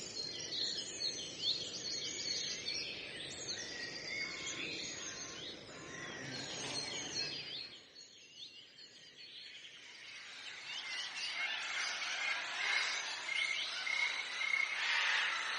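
Several birds singing and chirping at once, many quick sweeping notes, over a low background rumble that drops away about halfway through.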